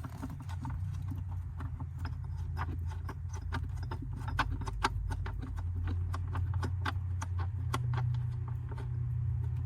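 Socket ratchet clicking in quick irregular runs as it backs a fuse-box mounting nut off its stud, over a low steady hum.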